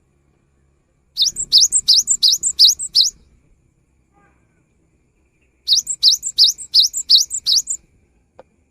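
Cinereous tit (gelatik batu) singing: two bursts of about seven or eight quick, high notes, each sweeping upward, with a pause of a couple of seconds between them. A faint click near the end.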